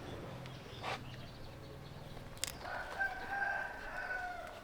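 Rooster crowing: one long, steady-pitched crow held for about two seconds, starting a little past halfway.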